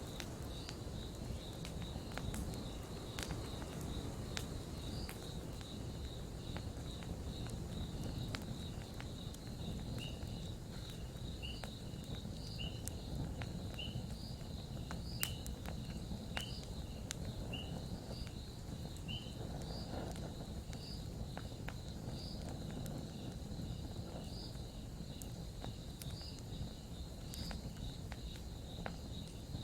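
Campfire crackling, with scattered sharp pops over a low steady rumble. Meanwhile an insect chirps high and evenly, about once every second and a quarter.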